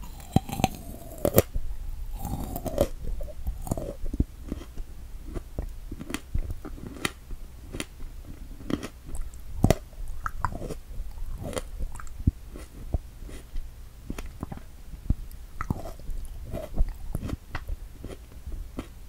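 Close-miked chewing of strawberries: wet mouth smacks and many short sharp clicks.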